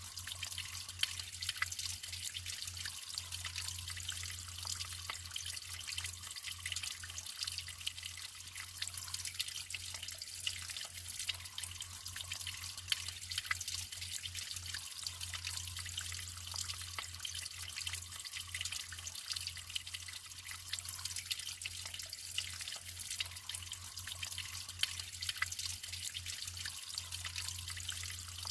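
Natural running water trickling and splashing steadily, full of small drips and plinks, with a low steady rumble underneath.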